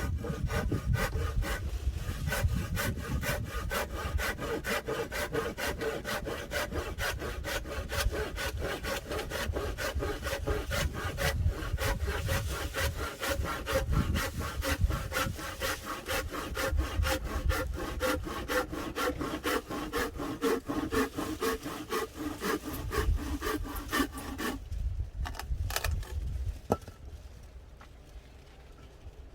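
A saw cutting through firewood with fast, even back-and-forth strokes, stopping abruptly about 24 seconds in, followed by a few light clicks.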